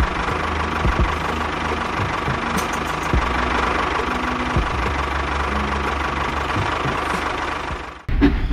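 Small tractor engine running steadily at idle with a fast, even knocking beat and a constant whine. It cuts off near the end, and a few sharp knocks follow.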